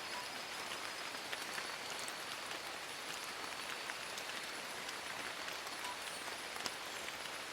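Steady rain falling on forest foliage, a continuous hiss with scattered individual drops ticking sharply.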